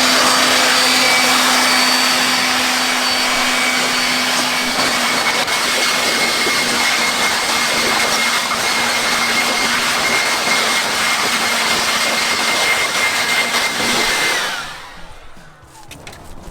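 Handheld air blower running steadily as it blows rinse water off an engine bay: a loud rush of air with a steady motor whine. Near the end it is switched off and winds down, its whine falling away.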